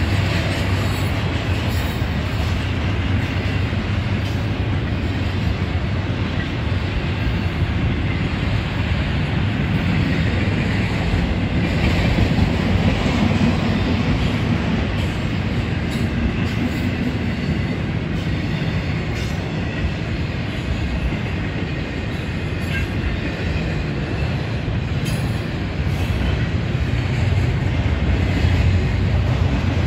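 A train's cars rolling past on the rails, a steady heavy rumble of wheels on track that holds for the whole stretch.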